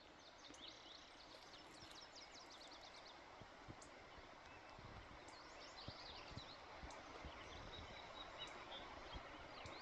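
Near silence: faint outdoor background hiss with small birds chirping in quick high trills now and then.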